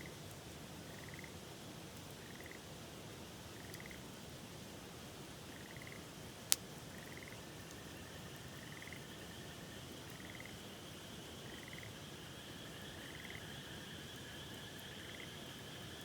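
Frogs calling by a river: a short trilled call repeats about every second and a half, and longer steady trills join about halfway through, over the even rush of flowing water. There is one sharp click about six and a half seconds in.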